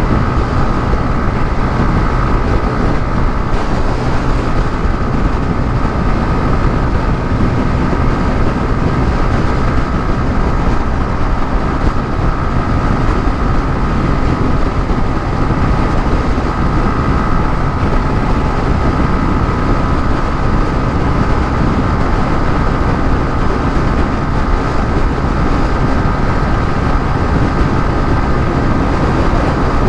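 150cc motorcycle cruising at a steady speed: a constant engine drone with a steady faint whine, mixed with heavy wind and road rumble on the microphone.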